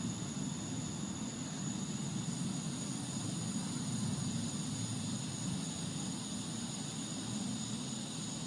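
A steady low rumbling drone of unknown origin, the unexplained 'strange noise' in the sky that the recorder is trying to capture. It holds even throughout, with a thin, faint steady high tone above it.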